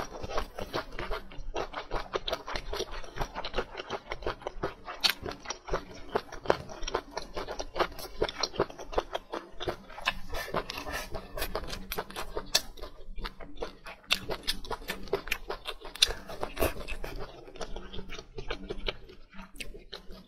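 Close-miked chewing of food with the mouth closed: a steady run of small mouth clicks and smacks, several a second.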